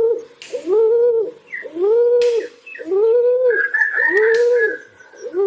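Pigeon cooing: a string of rounded, arching coos at about one a second, with a higher, thinner call partway through and a few brief rustles between the coos.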